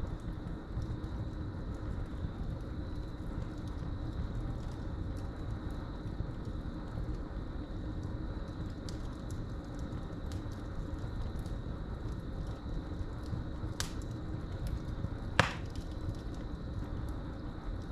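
Wood fire burning in a fireplace, crackling with frequent small ticks and two sharp pops near the end, the second the loudest. Crickets chirp in a steady high trill throughout.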